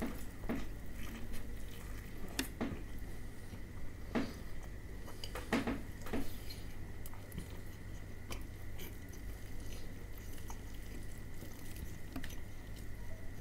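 Close-up eating of crispy-coated fried chicken: a bite followed by chewing, with scattered crisp crunches at irregular intervals over a steady low hum.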